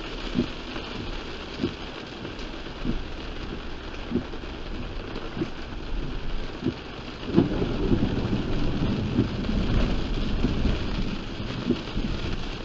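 Heavy rain pouring on a moving car, with regular soft knocks about once every second and a quarter, typical of windshield wipers. About seven seconds in, a low rumble of thunder swells up and rolls on for several seconds.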